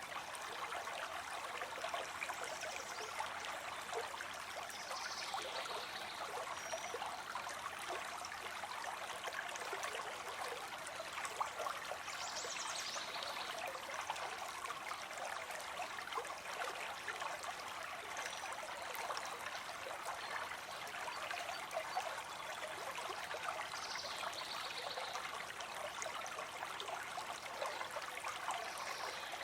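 A small stream trickling and burbling steadily over stones. A few faint, short, high chirps come through about five seconds in, again around twelve seconds and near twenty-four seconds.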